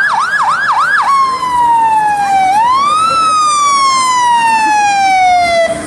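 Fire truck siren sounding: a fast warbling yelp of about four cycles, then a slow wail that falls, rises once and falls again before cutting off near the end.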